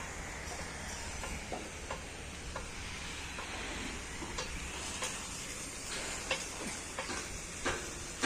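Rain falling steadily, an even hiss with scattered sharp ticks of drops striking nearby surfaces, the ticks coming more often in the second half.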